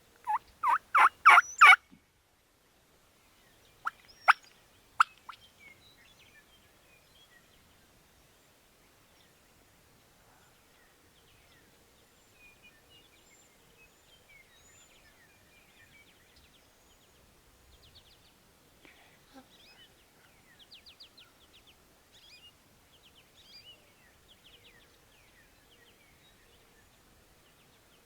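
Wild turkey calls: a loud run of about six evenly spaced notes in the first two seconds. A few seconds later come three sharp clicks, then only faint songbird chirps.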